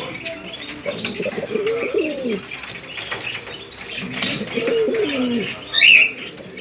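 Pigeons cooing: two long, low, rolling coos. Small birds keep chirping behind them, and a sharp, loud high chirp comes near the end.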